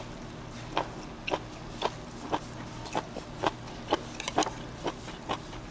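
Close-up crunchy chewing of raw beef omasum (cheonyeop), a steady crunch about twice a second as the rubbery, ridged tripe gives way between the teeth.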